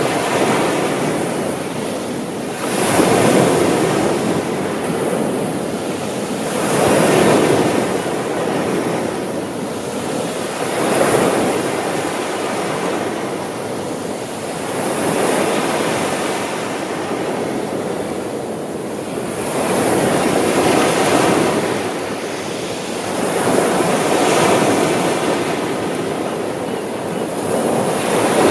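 Ocean waves breaking on a shore, the surf swelling and falling back about every four seconds.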